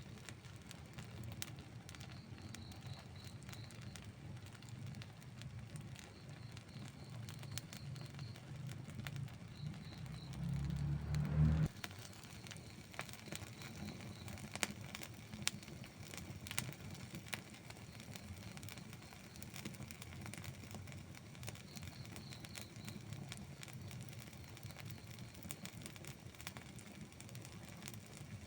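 Wood campfire crackling and popping with irregular sharp snaps. Underneath is a low rumble that builds and then cuts off suddenly about twelve seconds in.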